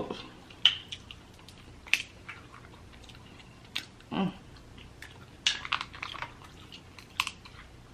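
Eating snow crab legs: shells cracking and snapping and wet chewing, in scattered sharp clicks, with a short vocal sound about four seconds in.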